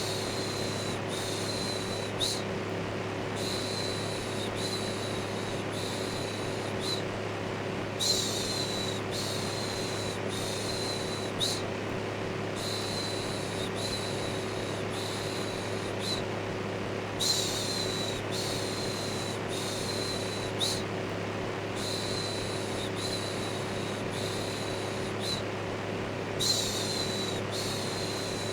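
Electric fan running steadily with a low hum, overlaid with rhythmic shushing: runs of about four or five short "shhh" sounds, one run about every nine seconds.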